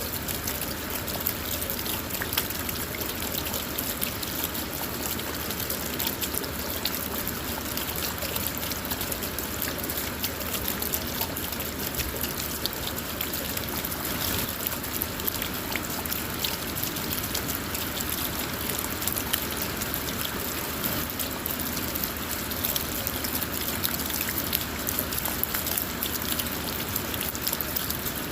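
Steady rain falling on a car, a dense even hiss of many small drop ticks with running water mixed in.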